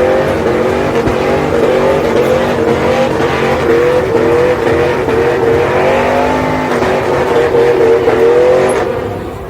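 Pickup truck engine held at high revs in a burnout, its pitch surging up and down again and again over a hiss of spinning, squealing tires. The engine note falls away just before the end.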